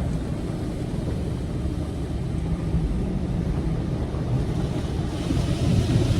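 Automatic car wash tunnel running around a car, heard from inside the cabin: a steady low rumble, with a spraying hiss swelling up about five seconds in.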